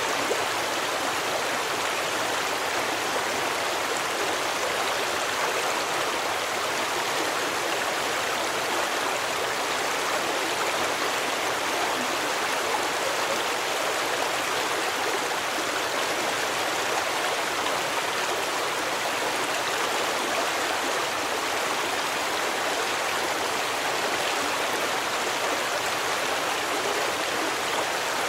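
A stream of running water flowing steadily: a constant, even rush with no breaks or changes.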